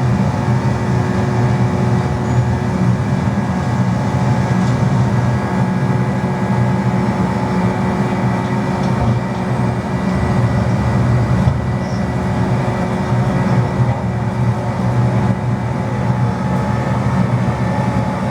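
McDonnell Douglas DC-10's three jet engines and the rushing air, a steady loud drone with a low hum and a few faint steady whines above it, heard from inside the aircraft during the takeoff climb.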